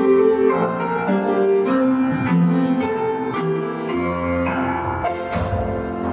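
Piano playing a folk-dance tune in chords, with a bass line and a melody moving in short steady phrases.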